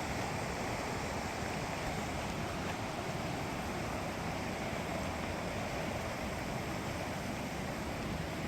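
Creek water rushing, a steady even noise that does not change.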